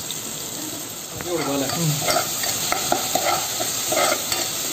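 Shallots with ginger-garlic and green chilli paste sizzling in hot oil in a pot. About a second in, a steel spatula starts stirring and scraping through it, about three strokes a second.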